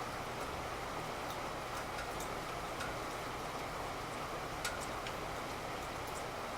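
Steady rain falling, an even hiss, with light irregular ticks of drops scattered through it and one sharper tick about four and a half seconds in.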